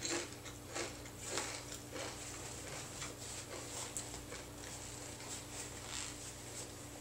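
Close-miked chewing: soft, irregular mouth and crunching sounds, spaced roughly half a second to a second apart, over a steady low hum.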